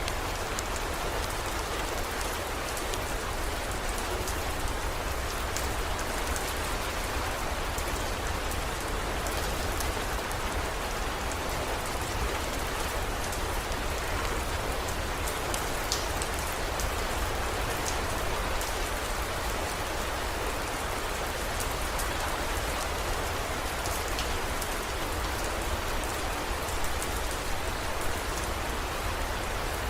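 Steady heavy rain, an even hiss with scattered sharp drop ticks, over a steady low rumble.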